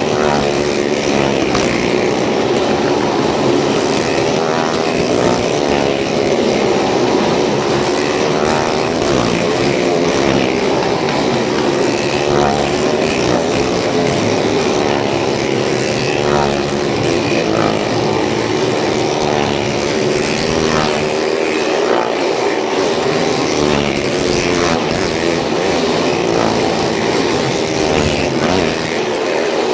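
Several motorcycle engines running hard as the bikes circle the wall of a Well of Death, the engine note rising and falling every second or two as each bike sweeps past.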